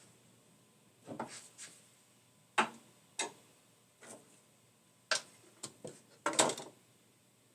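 A series of scattered, irregular sharp clicks and taps, about a dozen over several seconds, with the loudest cluster near the end.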